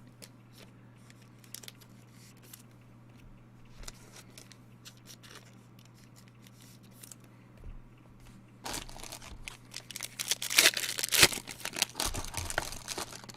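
Trading cards being handled with faint scattered clicks, then from about nine seconds in a card pack wrapper being torn open and crinkled, loudly for a few seconds.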